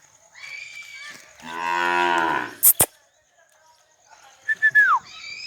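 A Gir cow mooing once, a single call of a little over a second. Two sharp clicks come just after it, and short chirps with a falling pitch are heard near the end.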